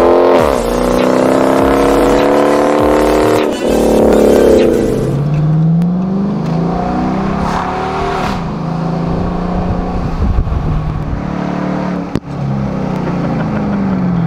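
Dodge Charger R/T's 5.7-litre Hemi V8, fitted with a throttle body spacer, revving hard with its note climbing and then dropping sharply about four and a half seconds in. It then runs at lower revs, heard inside the cabin, rising and falling a little as the car drives on.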